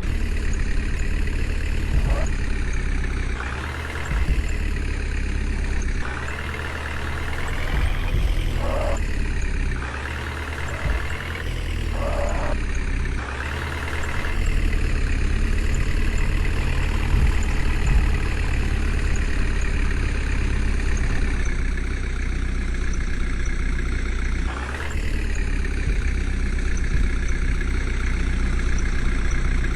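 Heavy diesel vehicle engine running steadily, its pitch rising and falling several times as it is revved.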